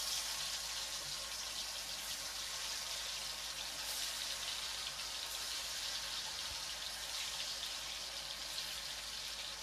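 Pounded shallot, garlic and chilli paste sizzling steadily in hot oil in a pan.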